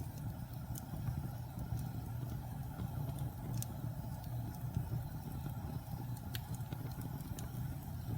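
Wood fire burning in a fireplace: a steady low rumble with scattered sharp crackles.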